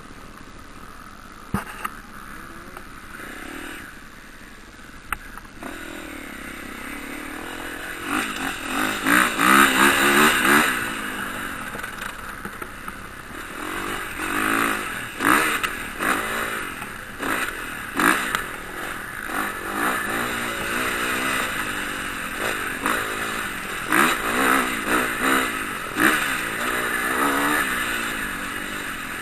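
Motocross bikes racing past, their engines revving up and falling away again and again through gear changes. The engines are loudest about a third of the way in and again in the last few seconds.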